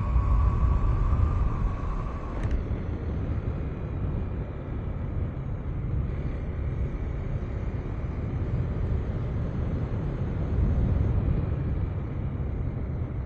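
KTM 390 Enduro R's single-cylinder engine running at road speed, under heavy wind rush on the microphone. A thin steady tone in the first two seconds stops with a click.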